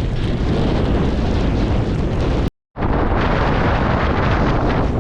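Gale-force wind buffeting the microphone: a loud, rough rush with heavy low rumble that cuts out completely for a split second about two and a half seconds in.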